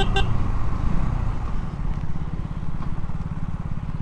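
KTM Duke single-cylinder motorcycle engine running at a steady cruise with a fast, even thump under rider-mounted mic wind noise, two short horn-like beeps right at the start.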